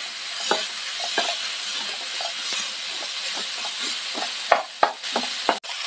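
Sliced onions, tomatoes and cashews sizzling in coconut oil in a nonstick wok while a wooden spatula stirs and scrapes them. The tomatoes are being sautéed until they soften. The sizzle is steady under frequent short spatula scrapes, with a few sharper knocks about four and a half seconds in.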